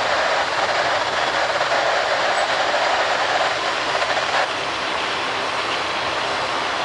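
A circus train's cars rolling past on the rails, a steady rush of wheel and rail noise. It is louder for the first four seconds or so, then eases to a lower steady level.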